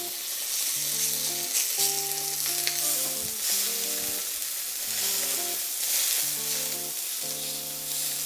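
Thin chicken breast slices sizzling and frying in a drizzle of oil on a hot ridged grill pan, just laid on, with background music.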